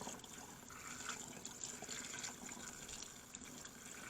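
Lacquer thinner being poured into a half-full plastic bottle of Type F transmission fluid, a faint, steady trickle of liquid filling the bottle.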